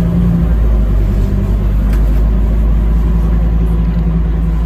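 Scania K310UB city bus's five-cylinder diesel engine running steadily under way, a loud low drone with no marked rise or fall.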